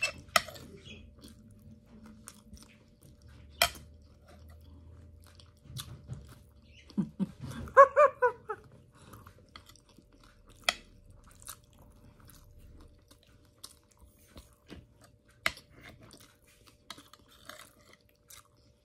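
Close-up chewing and mouth sounds of someone eating fatty pork, with a few sharp clicks of a metal spoon against the plate. About seven seconds in comes a short pitched sound that rises and wavers, the loudest moment.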